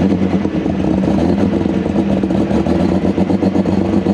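Superstock International pulling tractor's diesel engine idling loudly after start-up, a steady, rapidly pulsing beat.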